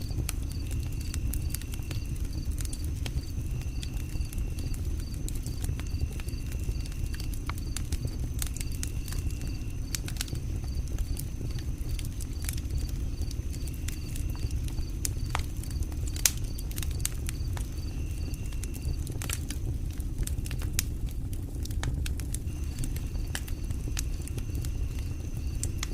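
Campfire crackling, with scattered sharp pops over a steady low rumble; the sharpest pop comes about 16 seconds in. A faint high chirp repeats about twice a second throughout.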